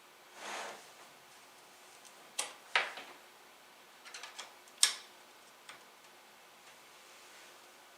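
Scattered sharp clicks and taps, a handful over a few seconds with the loudest near the middle, after a soft brief rush of air about half a second in.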